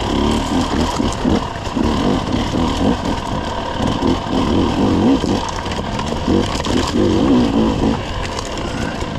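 Dirt bike engine running at low speed on a trail, the revs rising and falling over and over as the throttle is worked.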